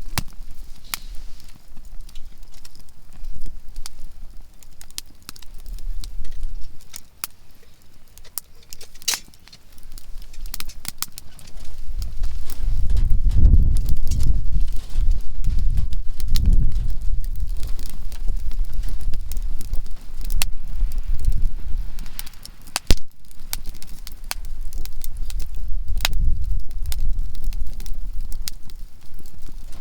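Conifer firewood crackling in a campfire, with frequent sharp pops and snaps. From about twelve seconds in, a loud low rumble sits under the crackling and is the loudest part.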